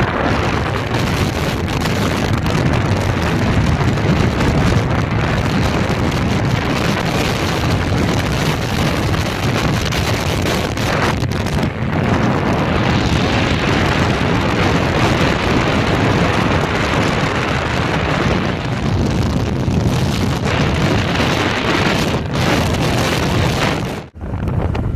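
Wind buffeting the microphone: a loud, steady rushing noise, heaviest in the low end, which drops out briefly about a second before the end.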